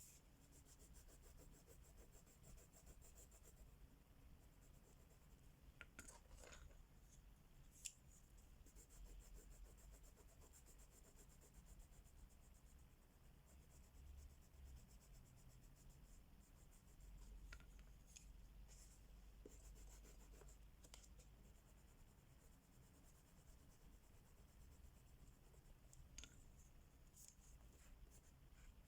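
Crayola wax crayons rubbing and scratching across a colouring book's paper, faint and continuous, with a few light clicks now and then.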